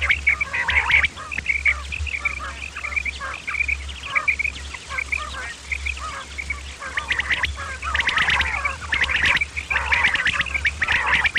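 Quail calling: a fast, busy run of short high chirping notes, several calls overlapping, growing louder again in the second half. A steady low hum runs underneath.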